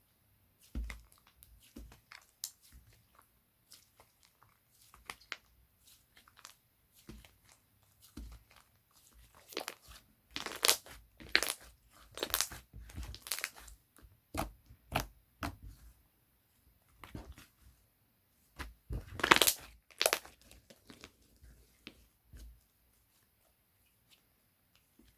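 Slime being squished, pressed and stretched by hand, giving irregular crackles, clicks and pops. These come loudest in a cluster around the middle and again about three quarters through, then stop near the end.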